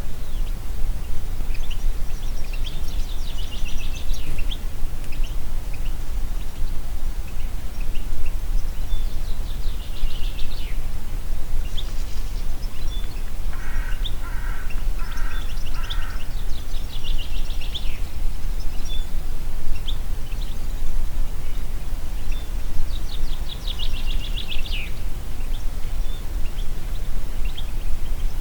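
Wind in a forest, a steady low rumble, with songbirds singing: short, fast trilled phrases recurring every several seconds. About halfway through, a lower call of four evenly spaced notes.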